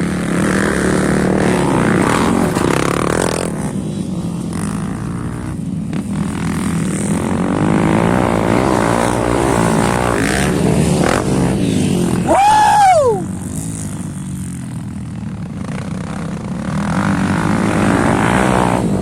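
Motocross dirt bike engines revving and changing pitch as they ride the track, with one bike revving sharply up and back down close by about twelve seconds in, the loudest moment.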